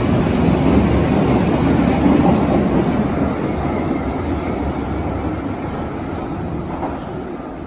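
Berlin U-Bahn large-profile train running on the track, a steady rumble of wheels and motors that fades gradually.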